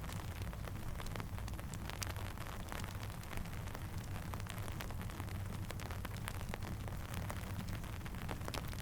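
Steady rain falling, with a low rumble underneath and many sharp, irregular crackles and pops from a campfire.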